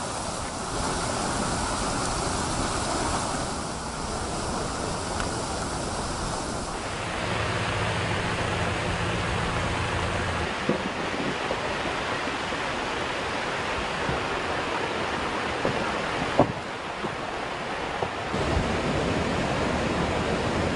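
Steady rushing of floodwater mixed with wind noise on the microphone, changing abruptly in character between cut-together shots, with a sharp knock about 16 seconds in.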